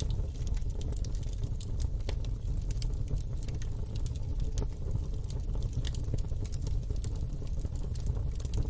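Wood fire in a fire pit crackling: irregular sharp pops and snaps, many per second, over a steady low rumble.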